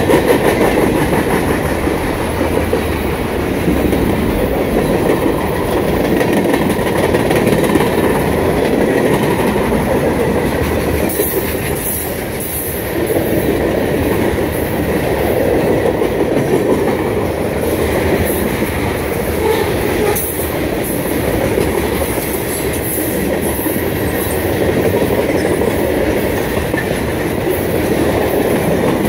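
Freight cars, boxcars then tank cars, rolling past close by: a steady rumble and clatter of steel wheels on the rail, with a few brief high squeals from the wheels part-way through.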